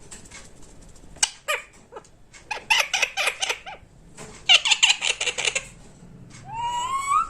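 Pet parrot making chattering, squeaky calls: two short clicks, two quick rattling runs of about a second each, then a rising call near the end.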